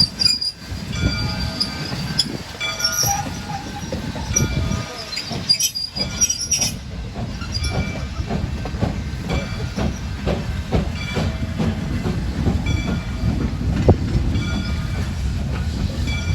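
Train cars rolling past with a steady low rumble. High-pitched wheel squeal over the first several seconds gives way to repeated clacking of the wheels over rail joints.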